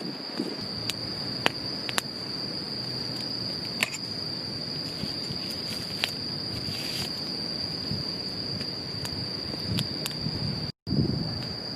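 Steady high-pitched drone of insects, with scattered sharp clicks and some low rustling. The sound drops out for a split second near the end.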